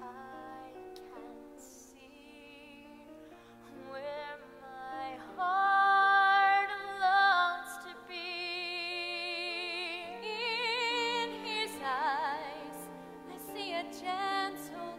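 Women singing a slow ballad in a full, operatic style with wide vibrato over instrumental accompaniment. A long held high note about five to seven seconds in is the loudest part.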